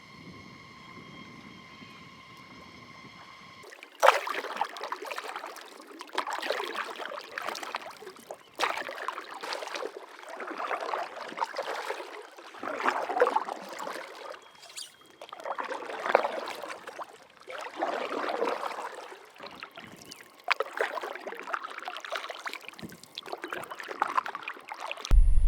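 Paddle strokes in lake water from a stand-up paddleboard: a splash and swirl about every two seconds, starting a few seconds in after a faint steady hum. A loud low rumble cuts in at the very end.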